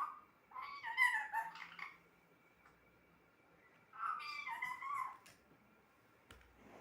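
Pet parrot vocalizing in two short bouts of pitched, wavering calls, about half a second in and again about four seconds in.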